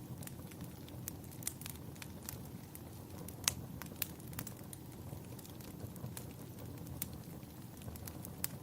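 Wood fire crackling in a fireplace: irregular sharp pops and snaps over a low, steady rumble, with one louder pop about three and a half seconds in.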